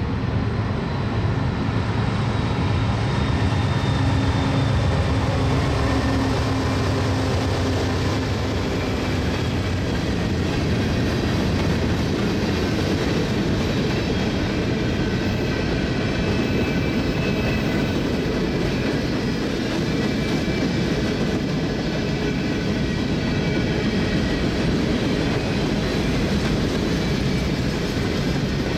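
Norfolk Southern GE Dash 9-44CW diesel locomotive, with its 16-cylinder engine, passing close by, its low engine drone falling away after about ten seconds. A train of empty open-top hopper cars follows with a steady rumble of wheels on rail and faint high-pitched wheel squeal.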